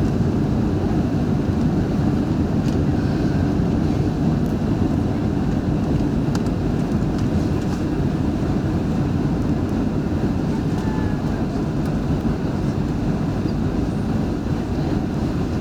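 Steady low roar of an airliner's engines and rushing air, heard from inside the passenger cabin as the plane comes in to land, with a few faint clicks and rattles.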